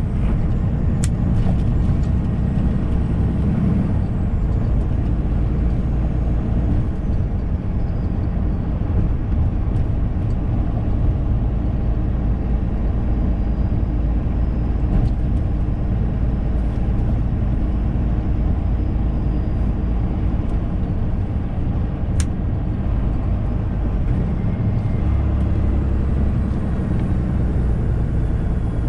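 Semi-truck engine and road noise inside the cab while driving, a steady low drone. About 25 seconds in the engine's low note grows stronger, and there is one sharp click a few seconds before that.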